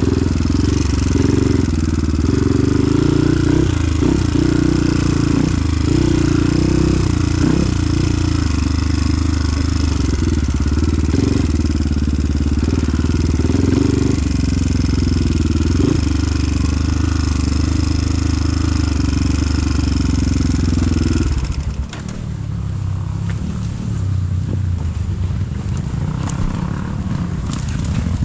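Motor vehicle engine running steadily. About 21 seconds in, the sound changes abruptly to a lower, rougher engine noise, a little quieter.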